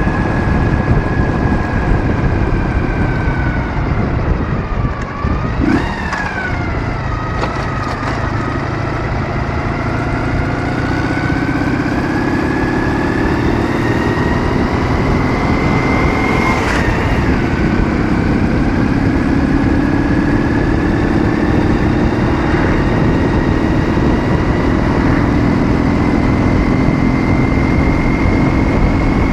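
Ural motorcycle's 650 cc boxer twin running under way, its note slowly climbing as it pulls, with a short break in the note about two thirds of the way through. Heavy wind rumble on the microphone.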